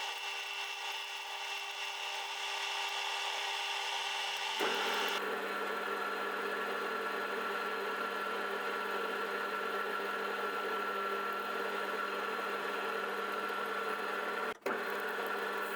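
A power-tool motor running steadily, with a steady whine. About four and a half seconds in, it drops to a lower, different pitch, and near the end it cuts out for an instant.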